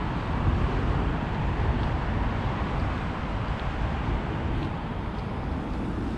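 Steady road traffic noise with a low rumble, loudest about half a second in and easing off slowly.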